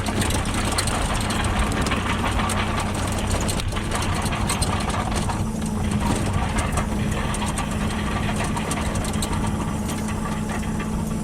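Engine of a compact earth-moving machine running steadily at a constant speed, with irregular rattling and clatter over it as it works.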